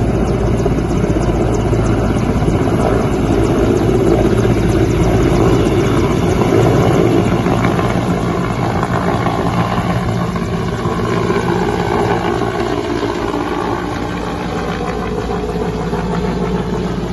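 Mil Mi-8 helicopter taking off: the main rotor and twin turboshaft engines running loud and steady, easing off somewhat in the second half.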